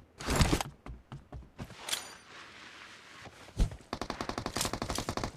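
Video game gunfire: a few single shots in the first seconds, then, about four seconds in, a sustained burst of rapid automatic fire at roughly ten rounds a second.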